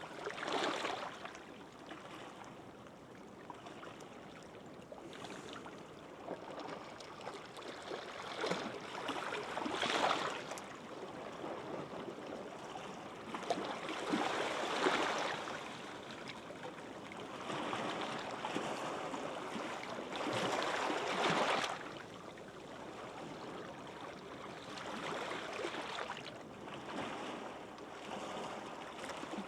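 Gentle waves washing onto a beach: each breaking wave swells up and fades away again every few seconds, over a steady low hiss of surf.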